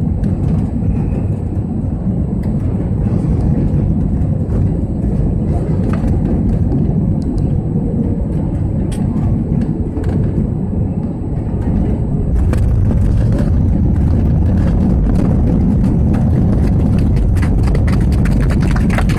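Airbus A321 cabin noise during landing: a steady low rumble of engines and airflow. About twelve seconds in, it steps up louder and a fast clattering rattle sets in, as the wheels touch down and roll along the runway.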